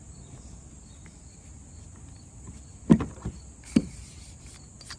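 Sharp knocks, three of them a little under a second apart about three seconds in, as a camera tripod is laid down in a kayak. Behind them runs a steady high-pitched insect chorus of crickets.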